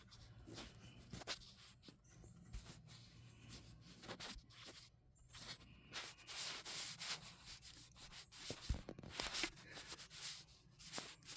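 Faint, uneven rubbing and scraping of hands and a tool working at a stuck part on a Toyota 22R engine's carburetor, with a sharp click about two-thirds of the way through.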